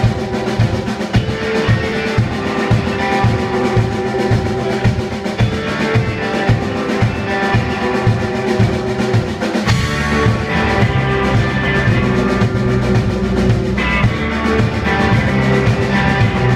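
Live rock band playing, with a driving drum kit, bass and guitar. About ten seconds in, the arrangement shifts and the bass fills in with held low notes under the beat.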